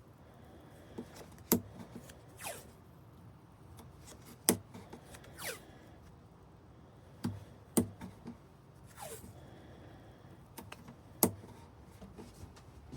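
Handling and tool noises on an acoustic guitar under repair: four sharp clicks or knocks a few seconds apart, alternating with three short swishes that fall in pitch.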